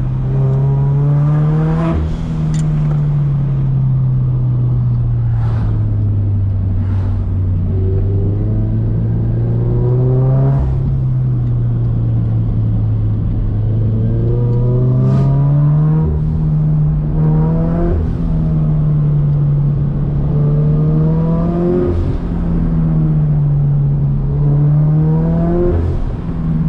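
Turbocharged Scion FR-S's 2.0 L flat-four engine pulling hard in second gear through tight bends. The engine note climbs and drops again and again as the throttle is opened and lifted, with short sharp sounds at several of the peaks.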